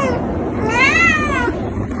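A cat meowing: the tail of one meow at the start, then one full meow about half a second in that rises and then falls in pitch.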